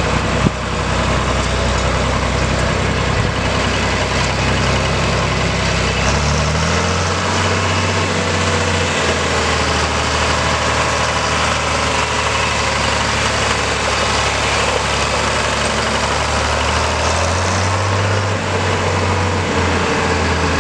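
John Deere 4020's six-cylinder diesel engine running steadily. Its speed rises about six seconds in and again near the end. A single sharp click comes about half a second in.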